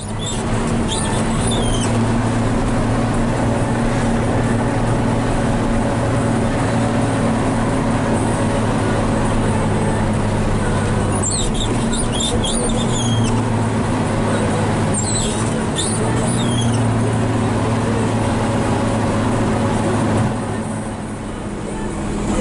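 Hino 500 FM320TI truck's diesel engine running steadily under way, heard from inside the cab. Short high-pitched squeaks come about a second in and again twice around the middle, and the engine sound drops briefly near the end.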